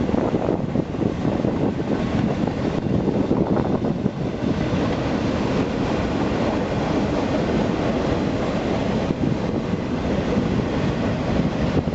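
Union Pacific freight train's cars rolling past, a steady, loud noise of steel wheels on the rails.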